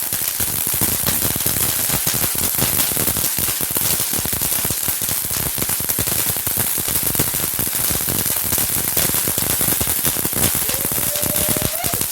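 Consumer fireworks crackling: a dense, unbroken run of rapid small pops, steady in loudness.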